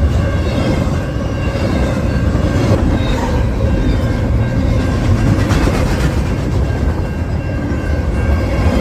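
A CN train rolling past, its wheels clattering steadily over the rails. Wind buffets the microphone, giving a heavy, steady low rumble.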